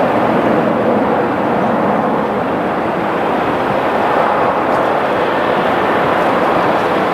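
Jet airliner's engines heard as a loud, steady rush of noise as the plane passes.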